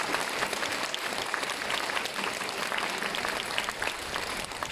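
Audience applauding: many hands clapping in a dense, even patter that eases slightly near the end.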